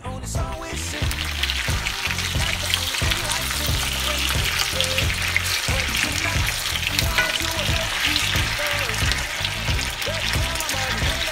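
Sliced potatoes and onions sizzling in hot oil in a skillet, setting in about half a second in and holding steady while a wooden spatula turns them.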